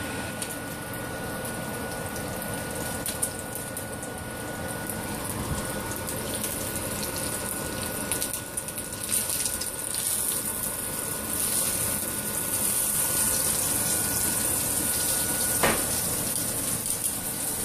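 Breaded chicken cutlet sizzling in hot oil in a cast-iron skillet: a steady frying hiss that grows brighter about nine seconds in.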